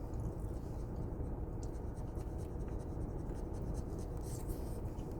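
Faint chewing and mouth clicks from eating a soft donut, over a steady low background rumble.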